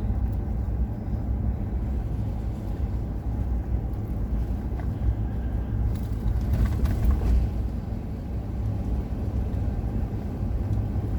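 Car driving, a steady low road rumble, with a brief swell of louder noise about six to seven seconds in.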